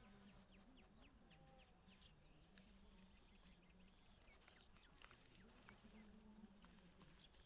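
Near silence, with the faint buzz of a flying insect, a fly or bee, wavering up and down in pitch, and scattered faint ticks.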